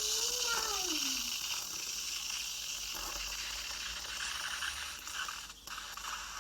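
Tassimo pod coffee machine hissing as it dispenses the milk pod for a cappuccino, the steam-like noise tapering off toward the end.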